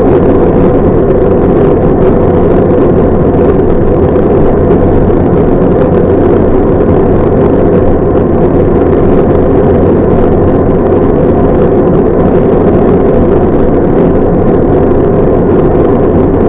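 Loud, steady engine drone and road rumble inside a truck's cab while driving.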